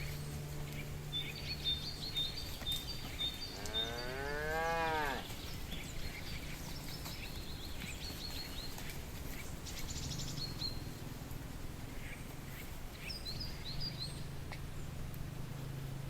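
A cow moos once, about four seconds in: a single call of about a second and a half that rises and then falls in pitch, over short high chirps.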